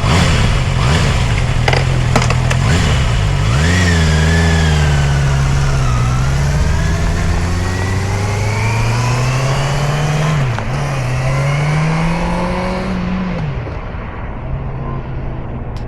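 Honda CB650R's inline-four engine accelerating hard, its pitch climbing through each gear and dropping sharply at each upshift, several times in a row. A few sharp clicks come about two seconds in.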